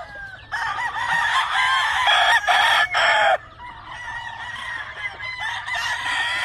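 Several gamefowl roosters crowing over one another, with clucking among them; the loudest crows come about two to three seconds in.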